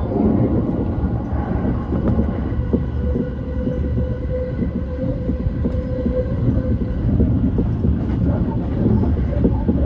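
JR East E235-1000 series electric train running at speed: a steady low rumble of wheels on rail with scattered light clicks, and a steady tone that comes in about three seconds in and fades out about four seconds later.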